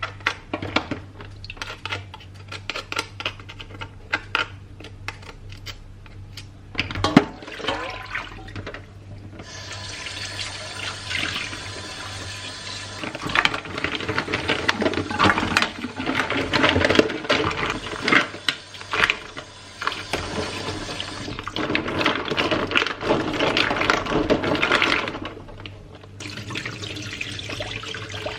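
Light clicks and clatter of kitchen items, then a kitchen tap running into a sink from about ten seconds in, with dishes clinking under the water. The running water stops briefly near the end and starts again.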